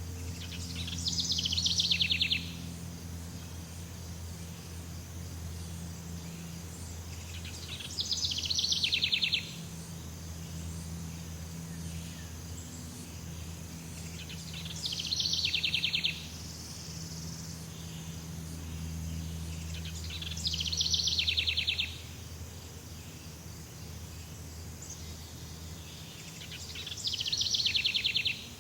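Jungle ambience: a bird repeats a fast trill that falls in pitch, five times, about every six to seven seconds, over a steady high insect drone and a low hum.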